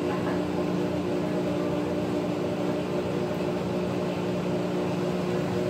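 Maytag top-load washing machine running with a steady motor hum.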